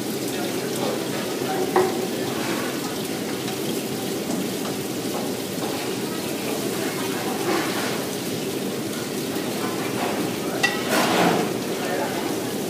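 Food sizzling and frying in a pan, a steady hiss, with a few clanks of the metal pan and spatula; the loudest clank comes about eleven seconds in.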